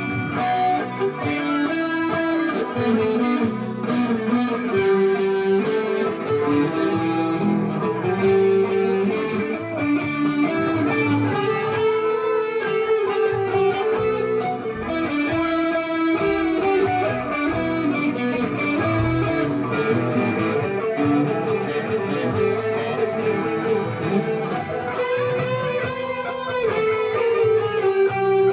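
Guitar music: a guitar playing a picked melody over chords, without singing.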